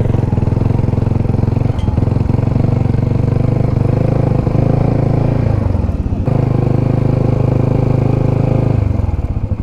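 Motorcycle engine running at low speed, its pitch easing up and down, with a brief dip about six seconds in.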